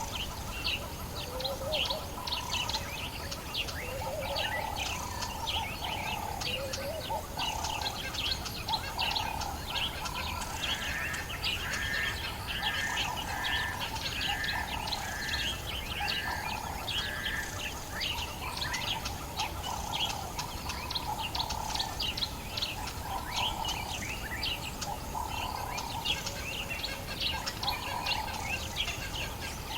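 Dawn chorus of many African bush birds calling over one another, with quick chirps and trills throughout. A lower call repeats every second or two, and midway a series of about seven evenly spaced double notes rings out.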